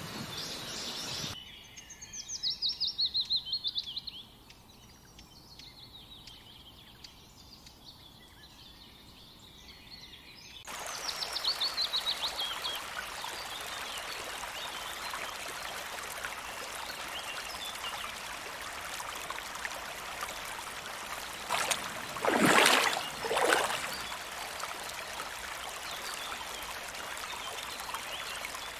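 Small birds singing rapid, descending trills, twice, over a steady rush of running water; a loud short sound breaks in about three quarters of the way through.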